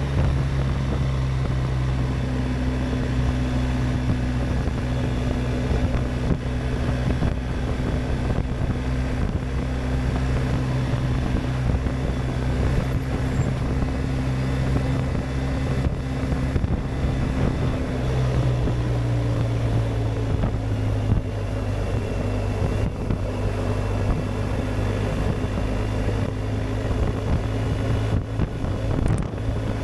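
BMW R1250GS Adventure's boxer-twin engine with an Akrapovic exhaust, cruising at steady revs. Its pitch drops slightly about two-thirds of the way through, then holds, with wind rushing past.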